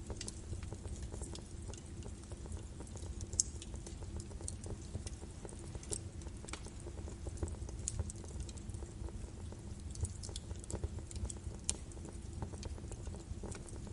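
Birch wood fire burning in a fireplace: irregular sharp crackles and pops over a steady low rumble of the flames, with one louder pop a few seconds in.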